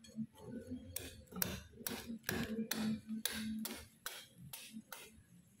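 A quick series of about a dozen sharp knocks or clicks, two to three a second, that stop shortly before the end.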